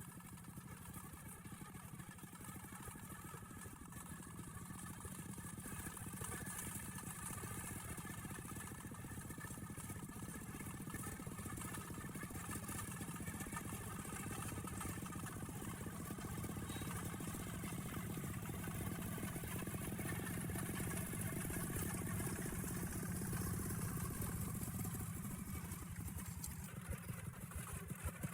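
Engine of a log-hauling tractor running steadily while driving, gradually getting louder.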